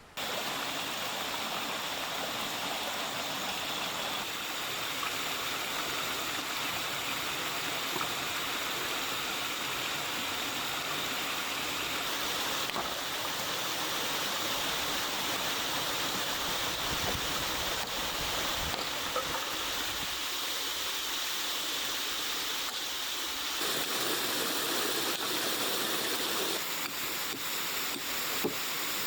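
Steady rush of water from a high waterfall and the stream below it, an even noise that holds at the same level throughout, its character shifting slightly about two-thirds of the way through.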